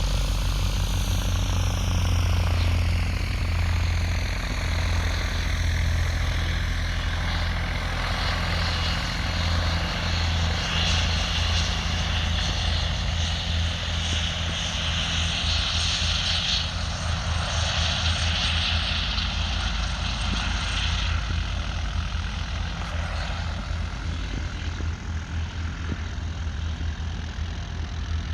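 Aircraft engine running steadily, with a deep, fast pulsing beat from the spinning blades. A higher hiss comes in about eleven seconds in and drops away around twenty-one seconds.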